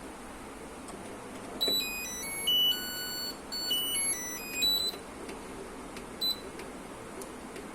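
Top-loading washing machine's control board playing its short electronic power-on tune of beeps at changing pitches, then a single short button beep about six seconds in: the refitted board is powered and responding.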